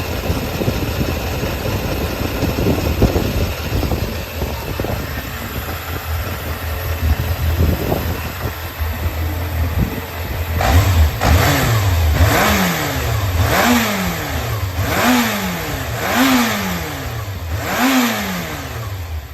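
Yamaha XJR400 (4HM) air-cooled inline-four engine running at idle, then blipped about six times, each a quick rise and fall in revs roughly every second and a half. The seller presents it as running with no abnormal noise.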